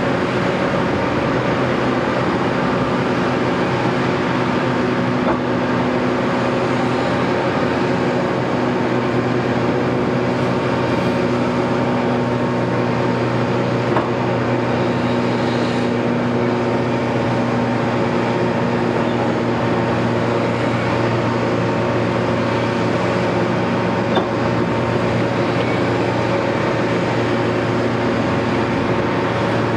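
Caterpillar 329E excavator's diesel engine running steadily, with a few light knocks now and then.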